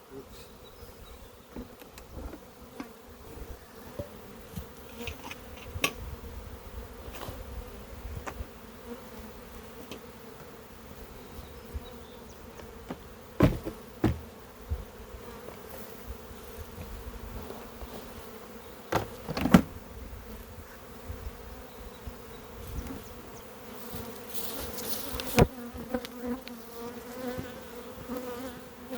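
Honeybees buzzing in a steady mass hum around an open hive. A few sharp knocks cut through it, the loudest about halfway through and twice more near the end.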